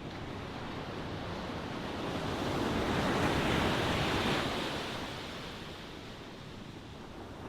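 Ocean waves washing ashore: one wave swells up, breaks and ebbs away over a few seconds, in a steady wash of surf.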